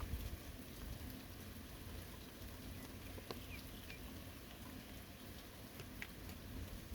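Steady light rain patter on a forest, with scattered sharp drip ticks and a couple of faint short high chirps about halfway through.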